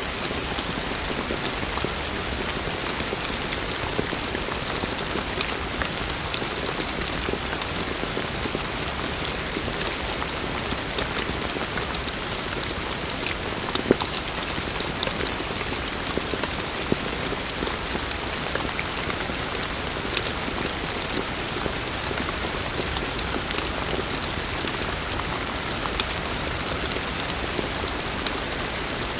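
Heavy rain falling steadily, a dense even hiss with scattered close drop impacts, one a little louder about halfway through.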